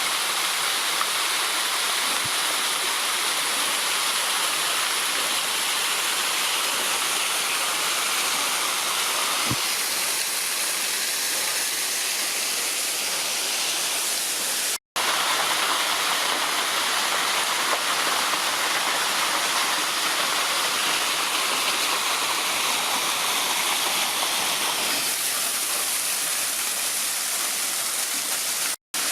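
Waterfall: a steady rush of falling water, broken twice by a split-second gap of silence, about halfway through and just before the end.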